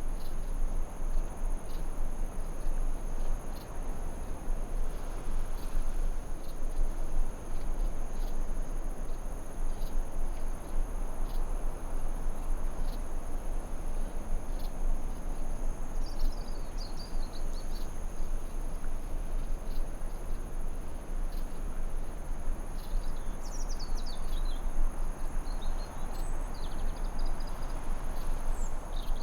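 Forest ambience: a steady high-pitched insect chirring over a constant rushing noise, with a few short bird twitters about halfway through and again in the last few seconds.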